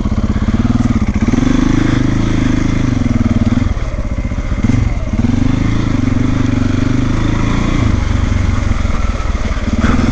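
Single-cylinder trail motorcycle engine revving up and easing off again and again as the bike is worked through deep mud, with brief drops in revs about four and five seconds in.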